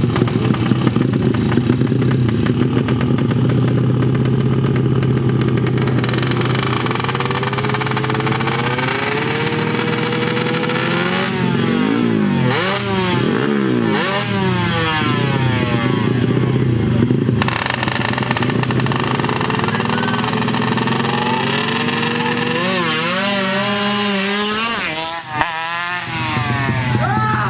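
Racing underbone (bebek) motorcycle engines revving, several pitches sweeping up and down and crossing one another over a steady engine drone.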